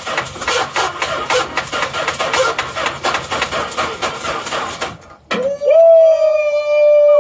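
The 1985 Dodge D150 pickup's starter cranking the engine over in a fast, even rhythm without it firing, the starter working again after being tapped loose with a bar; the cranking stops about five seconds in. It is followed by a loud single tone that slides up in pitch and then holds steady for about two seconds.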